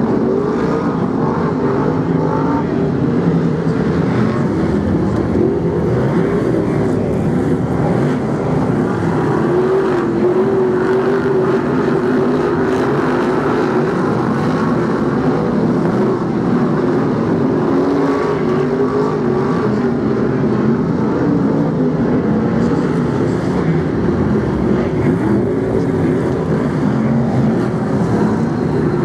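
A pack of BriSCA F1 stock cars racing round an oval, their big V8 engines running loud and steady, several pitches overlapping and rising and falling as cars pass.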